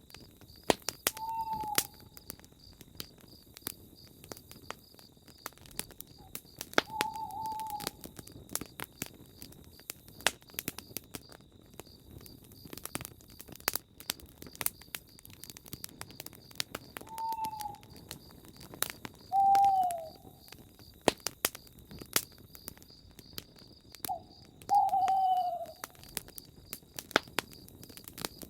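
Campfire crackling, with frequent sharp pops, while an owl hoots five times in short calls that fall in pitch. A steady high trill runs underneath.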